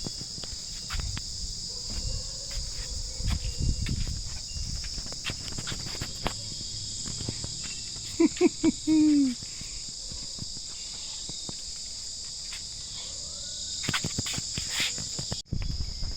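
Steady high-pitched chirring of crickets or other insects, with low knocks and rumbles through it. About eight seconds in, three short pitched calls and then a longer falling one stand out as the loudest sound.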